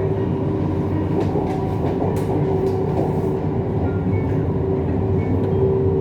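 Siemens Inspiro metro train running, heard from inside the car: a steady rumble of wheels on the track with a steady whine over it, and a few faint clicks around the middle.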